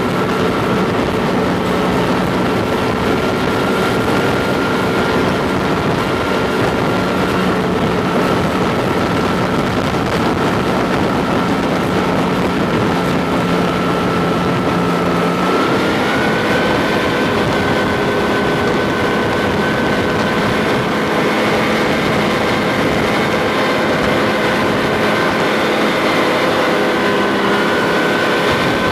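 Tracked armoured vehicle under way, its engine and running gear making a loud, steady drone with a high whine that steps up a little in pitch about halfway through.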